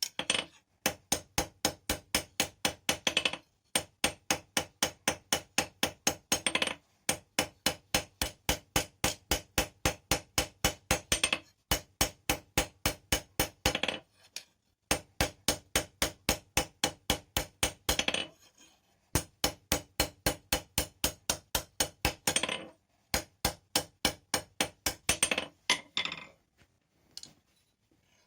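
Blacksmith's hand hammer striking steel rebar on an anvil in quick runs of blows, about five a second, with short pauses between runs. Each blow rings.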